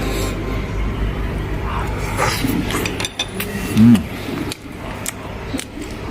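Tableware clinking during a meal, chopsticks against bowls and dishes, with a short, loud pitched vocal sound about four seconds in.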